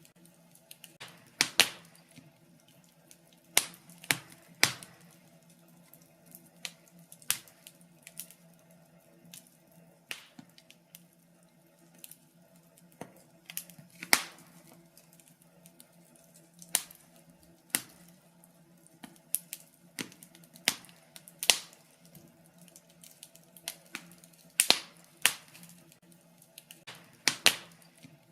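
Wood fire crackling in a fireplace: irregular sharp pops and snaps of burning wood, some much louder than others, over a faint steady hum.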